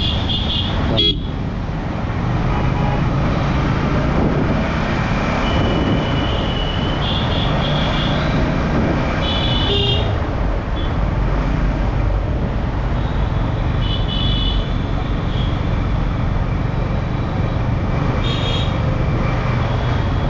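Motorcycle riding in traffic with steady wind and road noise at the helmet microphone and the engine running underneath, while vehicle horns toot briefly several times.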